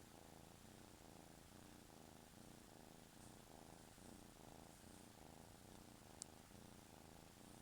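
A kitten purring quietly and steadily, pulsing about twice a second. There is a single sharp click near the end.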